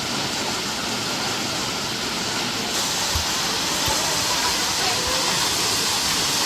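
Steady rush of a waterfall: an even hiss of falling water, growing slightly brighter about three seconds in.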